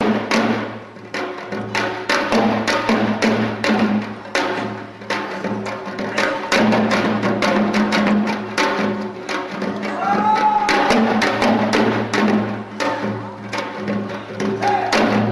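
Korean janggu (hourglass drum) struck in a fast running rhythm of sharp, dry stick strokes, over a steady low sustained tone, with a brief sliding pitched note about ten seconds in.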